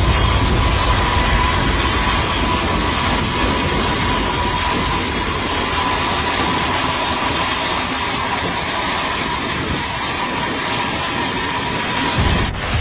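Jet aircraft engines running: a loud, steady rush with a high, steady whine and a fainter mid-pitched tone, easing slightly, then cutting off abruptly near the end.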